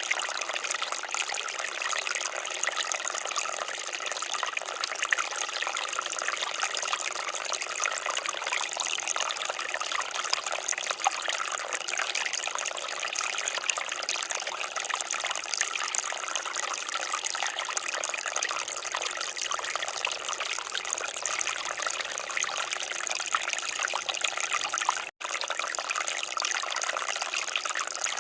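Water fountain splashing steadily, an even rush of falling water with little low end. The sound drops out for an instant near the end.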